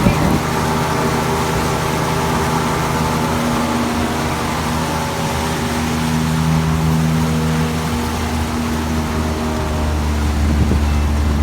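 Pontoon boat's motor running steadily under way, over a broad rush of water and wind.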